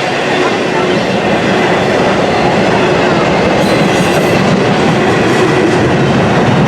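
Intermodal container cars of a freight train rolling past, steel wheels clattering on the rails with a thin, steady squealing tone over the noise. The noise grows a little louder during the first couple of seconds.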